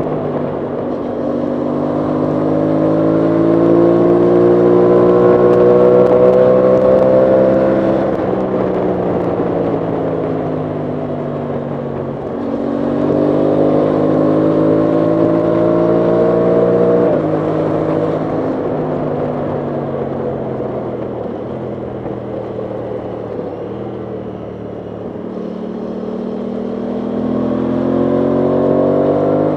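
Aprilia Tuono 660 Factory's parallel-twin engine on the move. Its note rises under acceleration and falls when the throttle closes, with a sudden drop in pitch about seventeen seconds in and a fresh climb near the end.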